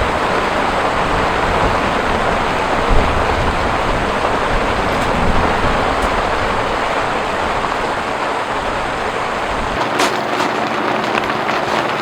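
Heavy rain falling steadily with low rumbles underneath. Near the end the sound changes abruptly to lighter, separate drips and taps.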